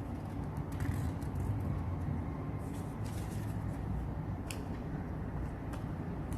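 A sheet of origami paper being handled and creased, giving scattered crisp crackles and clicks, clustered about a second in and around three seconds in. A steady low rumble runs underneath.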